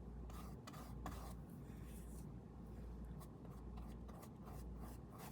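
Faint, irregular scratchy strokes of a brush or drawing tool rubbing across the painting surface, over a steady low hum.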